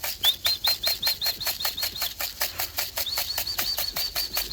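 Rapid, even ticking or rattling, about seven strokes a second, under two runs of quick, high-pitched chirps from a bird. The second run ends in a falling note.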